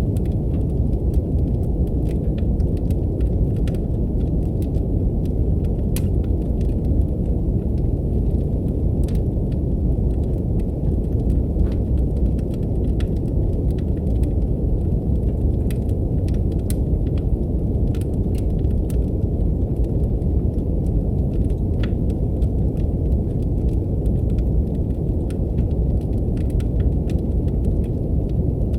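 Steady deep brown noise, a low even rushing hiss, with the sparse sharp pops and crackles of a burning wood fire scattered irregularly on top.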